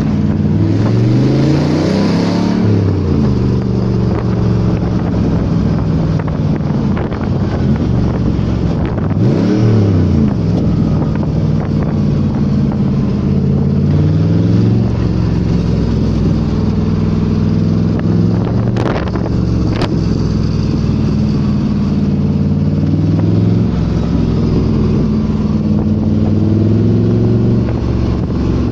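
AC Cobra's V8 engine, a BMW M5 unit, running and revving, its pitch rising and falling several times. There are two sharp pops about two-thirds of the way through.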